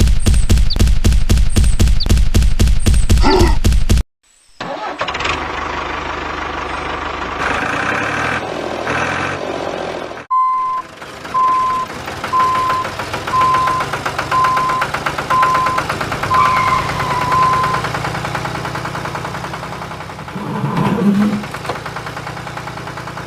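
Tractor engine sounds: a loud rhythmic chugging that cuts off after about four seconds, then an engine running more steadily. In the middle comes a string of evenly spaced beeps, about one a second.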